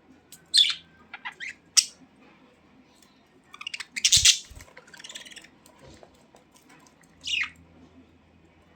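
Pet budgerigars chirping and squawking in short scattered calls, loudest in a burst about four seconds in, with another call near the end.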